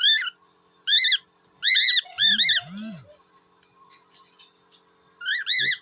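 Cockatiels giving sharp, arched chirps in short bursts, a pause of about two seconds, then a final pair near the end: agitated calling while defending their cage. Two low rising-falling calls come about two seconds in.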